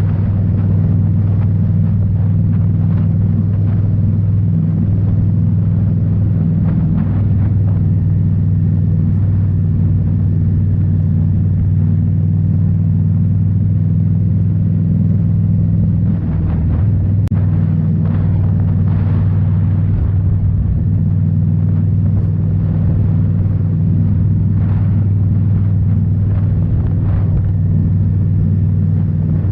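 2018 Indian Scout Bobber's V-twin engine running steadily through Rinehart slip-on mufflers, a deep, even exhaust note while riding, dipping briefly about halfway through.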